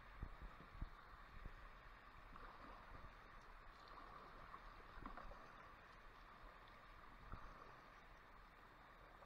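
Faint water sounds of a kayak moving on a stream, with a few low knocks in the first second and a half and another about seven seconds in.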